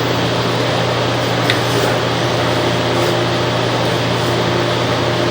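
Steady mechanical hum with a constant low drone and an even hiss, and a single faint click about a second and a half in.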